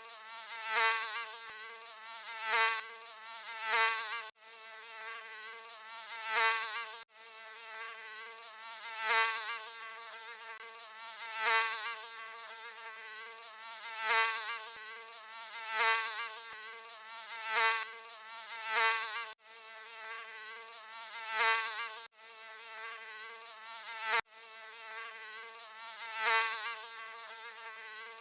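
Mosquito buzzing: a high whine with many overtones that swells louder and fades again about every two seconds, as in close fly-bys past the ear. A few sudden brief dropouts break it where the recording loops.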